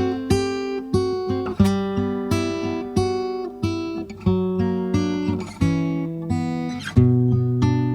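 Background music: acoustic guitar playing, plucked notes and strummed chords in a steady rhythm.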